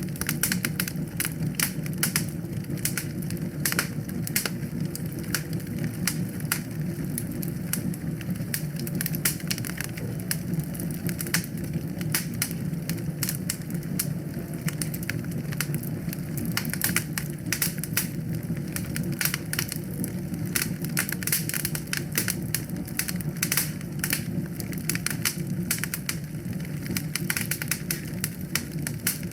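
Wood fire crackling: many sharp pops and snaps of varying loudness, close together and irregular, over a steady low rumble from the burning.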